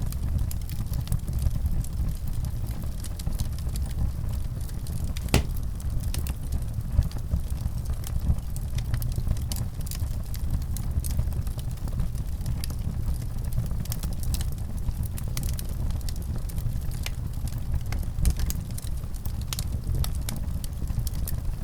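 Wood fire crackling in a fireplace: a steady low rumble of flames with scattered sharp snaps and pops, one louder pop about five seconds in.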